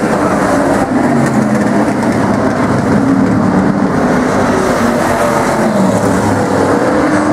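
A field of stock cars and trucks racing on an oval short track, many engines running at speed together as one continuous engine noise with slowly shifting pitch.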